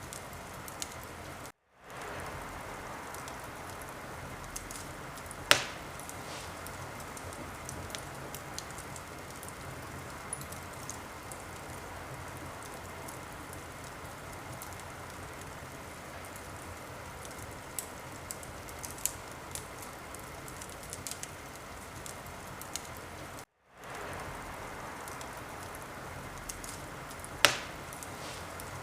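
Fire in a fireplace crackling: a steady hiss with scattered small pops and two loud sharp cracks, about five seconds in and near the end. The sound cuts out completely for a moment twice.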